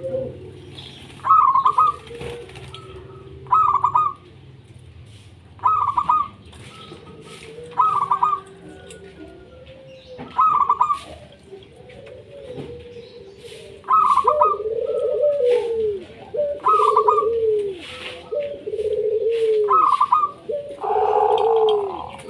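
Zebra dove (perkutut) cooing: short stuttering notes repeated about every two seconds, joined about two-thirds of the way through by louder, lower coos that fall in pitch.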